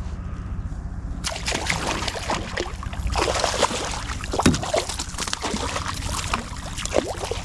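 Water splashing and trickling close by, starting about a second in as a run of many small, quick splashes and drips.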